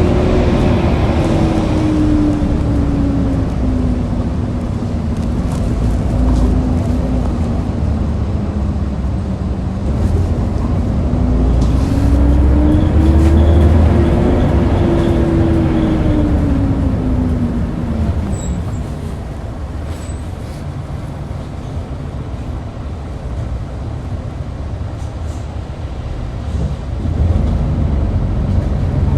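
2013 Hyundai New Super Aero City bus engine running with a low rumble and a whine that falls, rises again to a peak about 14 seconds in, then falls away by about 18 seconds in, as the bus changes speed.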